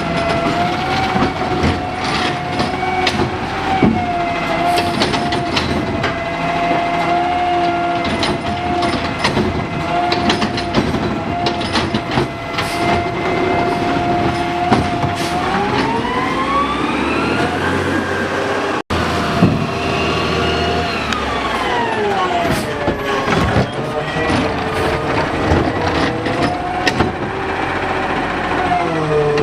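Garbage truck running with a steady mechanical whine and scattered clanks and knocks. The whine then rises in pitch as the engine revs up, and after a brief break falls back down.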